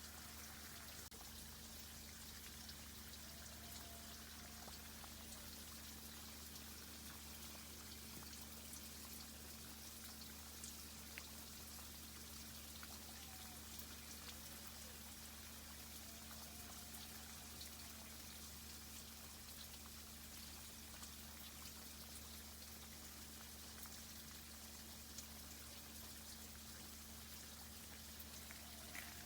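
Faint, steady water from a tree irrigation system, dripping and bubbling, with scattered small ticks.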